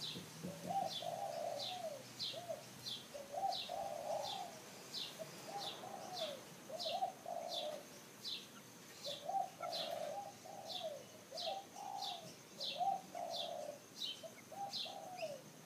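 Birds calling: a high, short chirp repeats about twice a second over lower phrases of arched, cooing-like notes, with a faint steady high whine behind.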